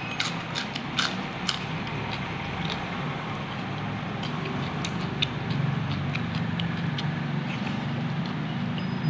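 Close-up crunchy bites and chewing of a raw green vegetable, with sharp crunches loudest in the first second and a half and softer ones after, over a steady low hum.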